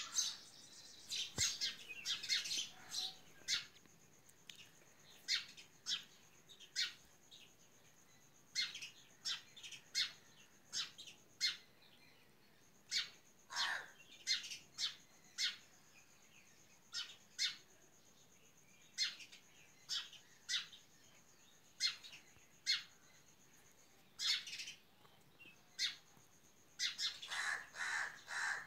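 Small birds chirping: many short, high calls scattered throughout, busier at the start and again near the end.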